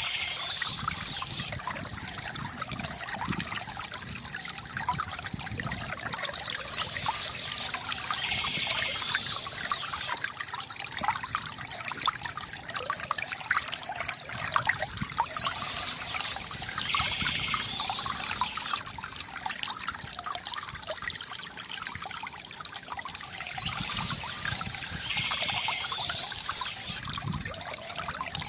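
Small stream trickling and babbling over stones: a steady rush of water full of little splashes and gurgles. A brighter, higher-pitched sound returns about every eight seconds.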